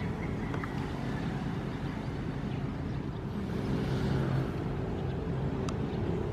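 Ocean waves over a steady low rumble, with one wave swelling and washing through about four seconds in.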